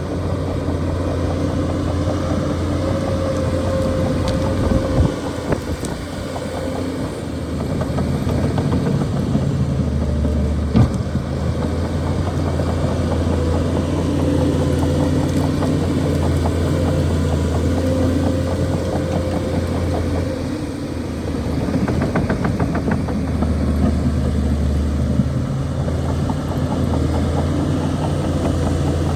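Shantui DH17C2 bulldozer's diesel engine running steadily, easing off briefly twice. A couple of sharp knocks come about five and eleven seconds in, and a short rattle about twenty-two seconds in.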